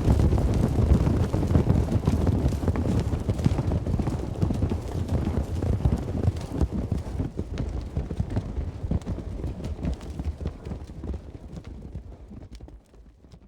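Many hoofbeats of a herd of cattle walking, over a low rumble; the sound fades away and cuts off suddenly near the end.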